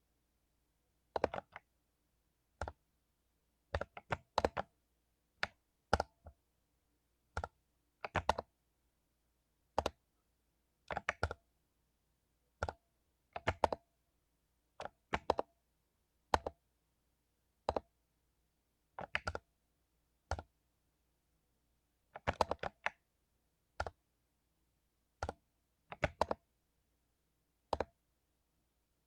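Mechanical keyboard with lubed Cherry MX Silver linear switches being typed on slowly: scattered keystrokes, single presses and short clusters of two or three, about one group a second, with quiet gaps between.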